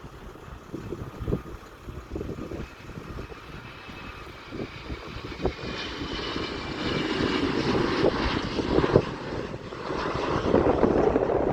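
Airplane engines growing steadily louder as the aircraft passes close, with a faint whine in the middle of the pass. Wind buffets the microphone throughout.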